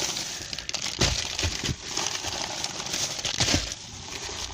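A bag of packaged tennis balls rustling and crinkling as it is handled, with a few irregular knocks.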